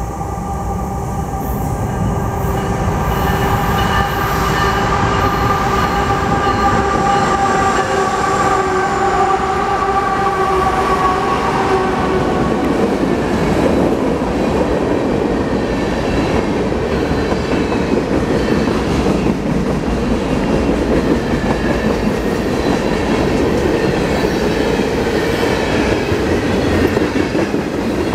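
Freight train passing close by: a long steady tone from the approaching locomotives for about the first twelve seconds, growing louder, then the rumble and clatter of freight cars rolling past, with some wheel squeal.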